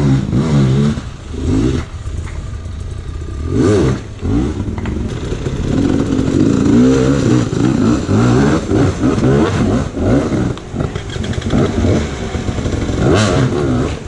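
Dirt bike engines revving, the pitch rising and falling again and again as the throttle is opened and closed, with more than one bike heard at once in places.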